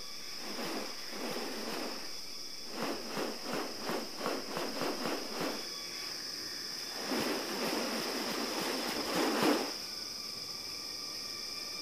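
Rainforest ambience with a steady high insect drone. Over it comes a run of short noisy pulses, about three a second, and then a longer noisy stretch that swells and cuts off.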